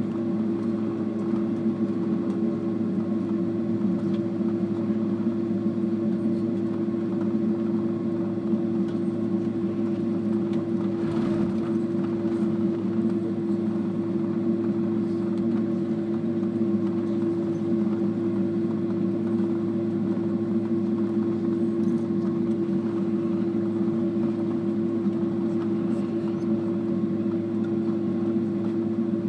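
Airliner cabin noise as the jet taxis after landing: the engines running at idle give a steady drone with an even hum and no change in pitch.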